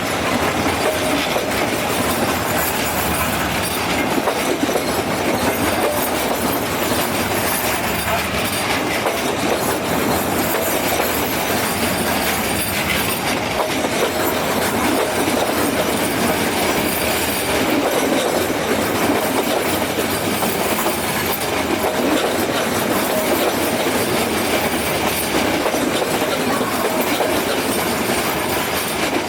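Metre gauge train running steadily along the track, a continuous rumble and rattle of wheels on rails.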